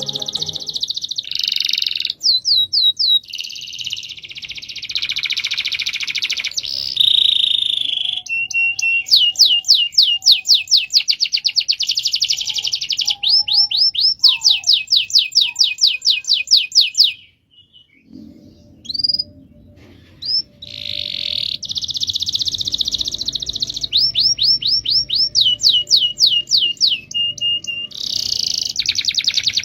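Domestic canary singing a long rolling song: fast trills of rapidly repeated sweeping notes, switching from one trill to the next, with a short break a little past halfway.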